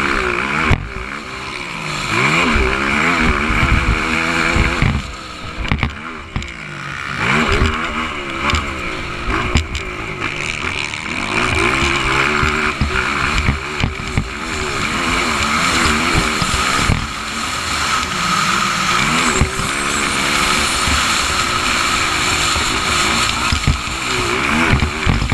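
Motocross bike engines racing, revving up and down over and over as they accelerate and shift.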